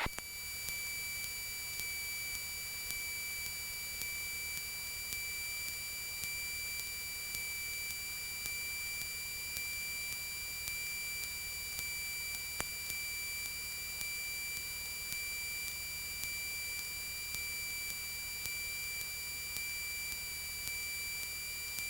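Steady high-pitched electrical whine in a Cessna 172's headset intercom audio, made of two pure tones, with faint regular ticks about one and a half times a second.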